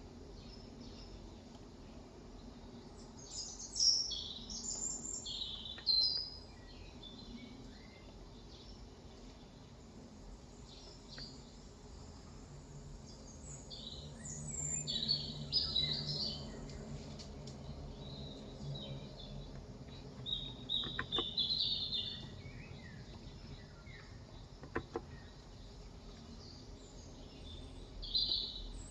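Small birds chirping and twittering in short bursts several times, over faint steady background noise, with a low hum swelling briefly in the middle.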